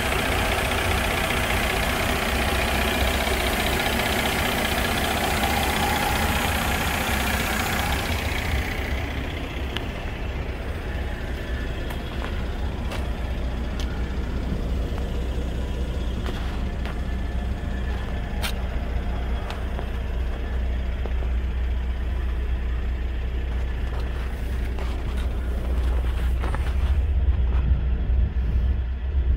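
Mercedes-Benz SLK's V6 engine idling steadily, loud with much hiss for the first eight or so seconds, then only a duller low rumble with a few light clicks.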